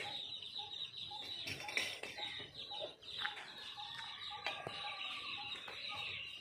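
Faint outdoor background with a bird calling over and over in short notes, about two a second, much like a hen clucking.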